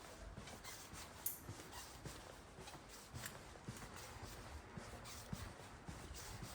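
Faint walking footsteps: irregular light scuffs and clicks over a low background hum, with one sharper click about a second in.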